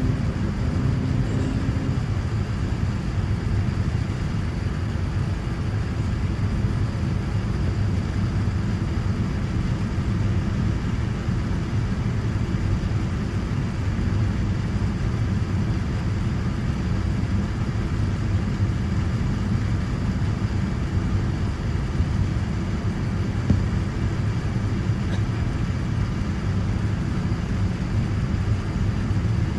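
Steady low rumble of Boeing 787-9 cabin noise in flight: airflow and engine noise as heard inside the cabin, unchanging throughout.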